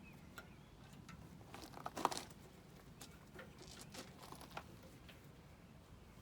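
Faint handling noises: scattered light clicks and short crinkling rustles of hands working on small parts, with a louder cluster about two seconds in.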